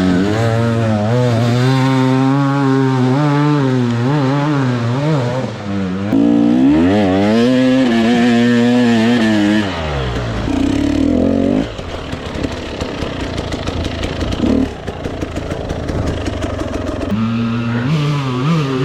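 Dirt bike engine revving up and down as the throttle is worked, with a long rise in pitch a little before the middle. For several seconds after the middle it runs lower and rougher with clattering noise, then picks up revs again near the end.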